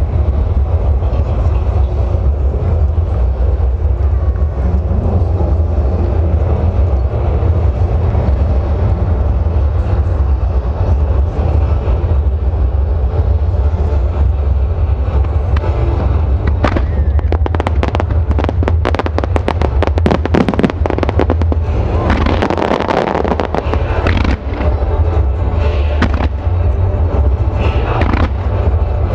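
Fireworks show set to music: music plays over loudspeakers throughout while fireworks fire and burst. A little past halfway comes a dense run of rapid crackling pops lasting a few seconds, with scattered bangs near the end.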